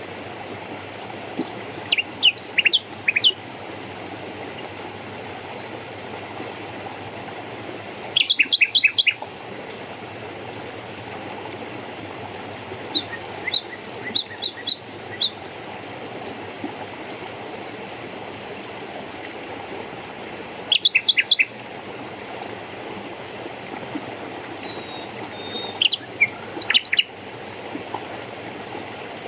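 Birds calling in short clusters of quick, high notes, with a few falling slurred whistles, every five or six seconds over a steady rush of running water.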